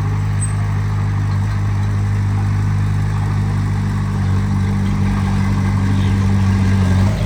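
Heavy-equipment diesel engine running steadily at a low, even pitch, growing slightly louder over the seconds.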